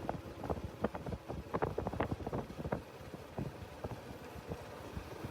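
Motorcycle coasting in neutral over a rough road: irregular knocks and rattles over a low rumble, with wind on the microphone.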